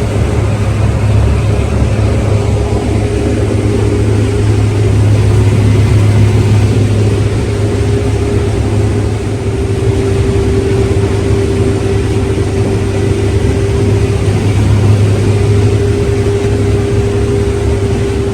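Heavy farm machine's diesel engine running steadily under harvest work: a constant low drone with a steady hum above it.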